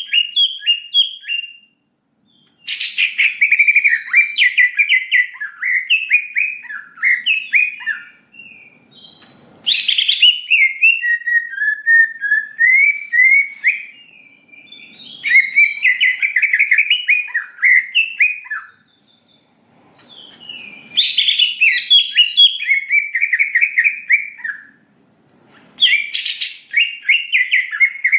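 Greater green leafbird (cucak ijo) singing a fast, chattering song in long bouts of rapid notes. Each bout opens with a sharp, piercing note, with brief pauses between bouts.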